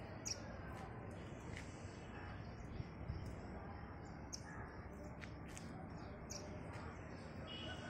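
Birds chirping, short high chirps scattered every second or so over faint outdoor background noise.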